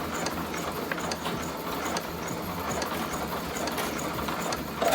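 Brother electric sewing machine running steadily, stitching fabric, with a fine regular ticking over its motor hum.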